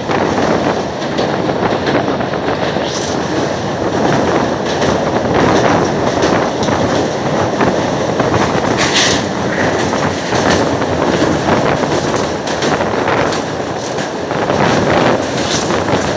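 Moving train: a steady, loud rumble and rattle of its wheels running on the rails.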